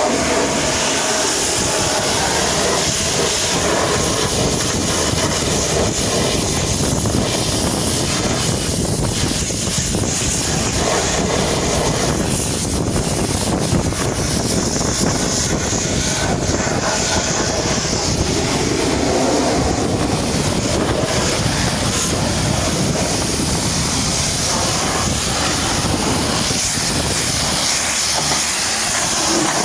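High-pressure washer jet spraying water against a truck, a steady hiss with no breaks.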